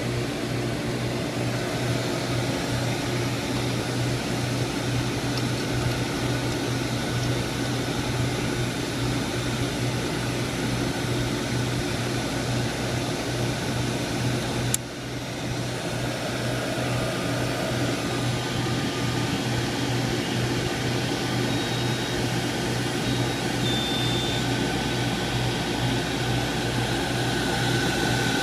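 CNC drill-resharpening machine running with a steady whirring hum from its motors. A single sharp click comes about halfway, after which the level briefly dips.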